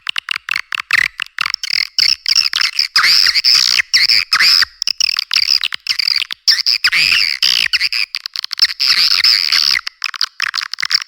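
Recorded swiftlet calls played as a lure: dense, rapid, buzzy twittering and chirping in quick runs broken by short gaps.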